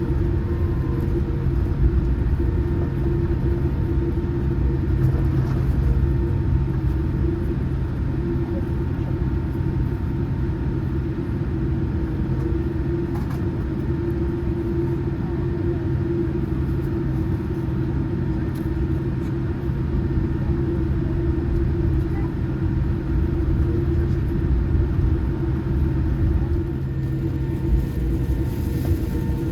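Boeing 787-8 cabin noise: a steady rumble of engines and airflow with a few faint steady tones, unchanging in pitch and level.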